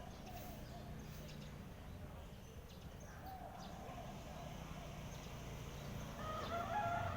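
Birds calling faintly over a low steady hum, then a rooster crowing about six seconds in, a long call that is the loudest sound here.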